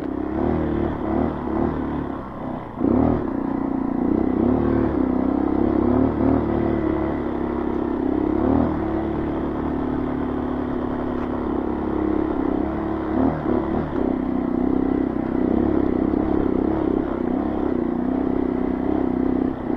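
Honda CRF230 dirt bike's single-cylinder four-stroke engine running at low, varying throttle while riding over a slippery trail, dipping and then picking up sharply about three seconds in.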